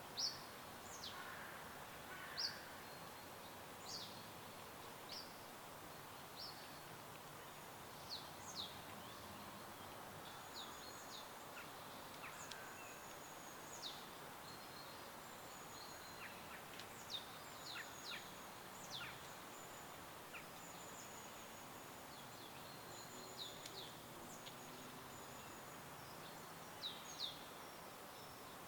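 Several songbirds chirping: short, high chirps and quick downward calls scattered throughout, some in brief series, over a faint, steady background hiss.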